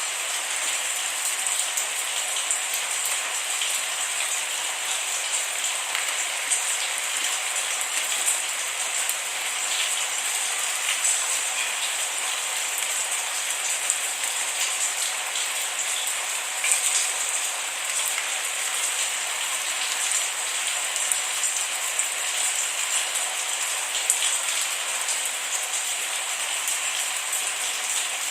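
Steady rain falling, a dense even hiss with many small drops pattering close by, and no thunder.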